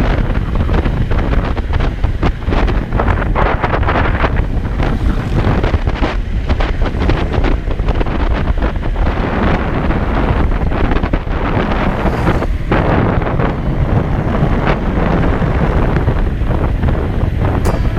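Heavy wind buffeting the microphone of a camera on a moving bicycle: a loud, steady rushing noise with a strong low rumble.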